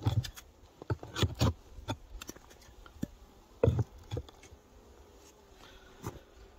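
Irregular wooden knocks and thumps from beehive equipment being handled while hive entrances are cleared, in clusters of a few sharp strikes with pauses between, the loudest near the start and near the middle.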